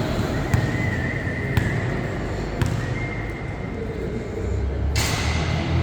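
A ball bouncing on a hard court floor about once a second, over a steady low hum and room noise.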